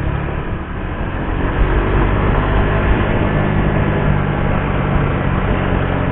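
Suzuki GSX-R150's single-cylinder engine running under way, with wind noise. It eases off briefly just under a second in, then pulls steadily louder.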